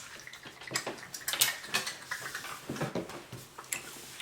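Wet, sticky chewing and lip-smacking of a person working a mouthful of salt water toffee that clings to the teeth, in irregular smacks and clicks.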